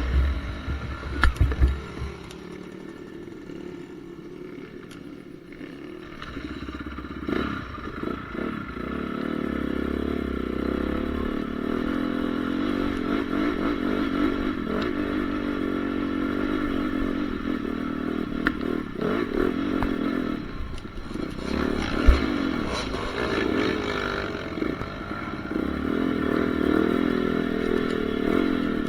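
Honda CRF450R's four-stroke single-cylinder engine running hard, its pitch rising and falling as the throttle is worked, quieter for the first few seconds and louder from about nine seconds in. Clattering knocks come over it, the sharpest about 22 seconds in.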